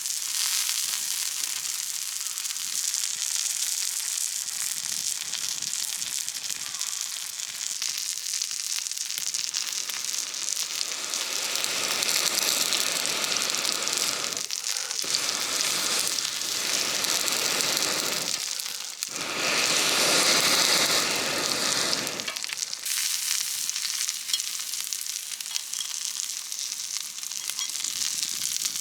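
Food sizzling and frying on a 4.5 mm thick steel griddle plate, a steady crackling hiss. It grows louder and fuller through the middle, with two brief abrupt breaks, then settles back.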